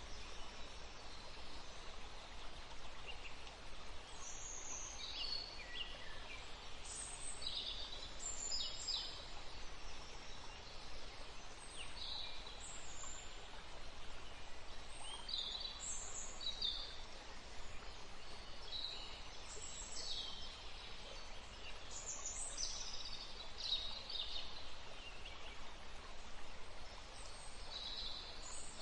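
Woodland stream flowing steadily, with songbirds chirping in short, high, quick calls every second or so.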